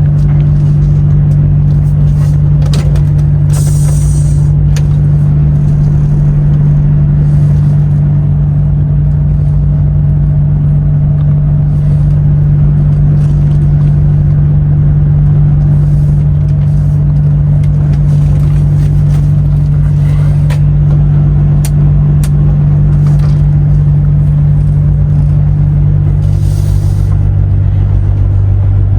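DAF XF truck's diesel engine droning steadily in the cab while under way; its pitch drops noticeably near the end.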